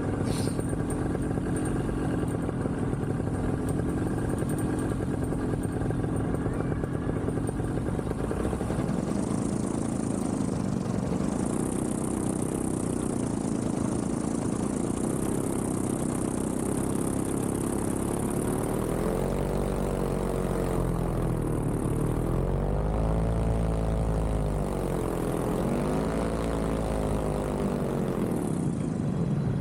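Vittorazzi Moster 185 single-cylinder two-stroke paramotor engine and propeller running low near idle, then revving up and back down about three times near the end as the throttle is blipped to keep the idling two-stroke from loading up and quitting.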